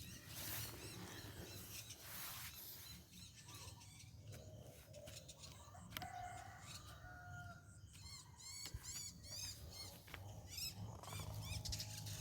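A rooster crowing once in the middle, with small birds chirping rapidly just after it.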